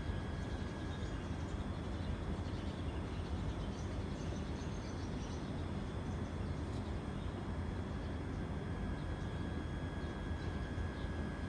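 Steady low outdoor rumble with a faint constant whine over it, and a few faint high chirps in the first half.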